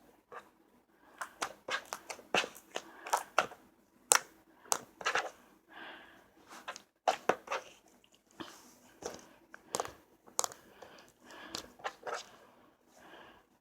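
Slime being squeezed and poked by hand, making irregular sharp clicks and crackles, several a second, with softer squishy stretches between.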